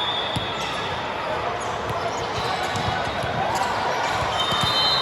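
Indoor volleyball match: a few sharp ball strikes over steady crowd chatter in an echoing gym.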